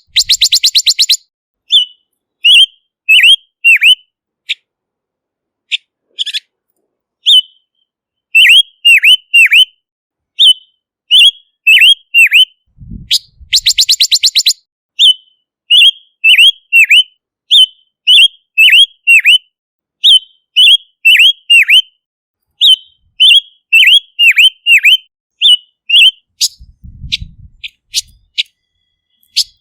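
Silver-eared mesia singing: short phrases of clear whistled notes, several of them dipping sharply in pitch, broken twice by a fast buzzy rattle, once at the start and once about halfway through.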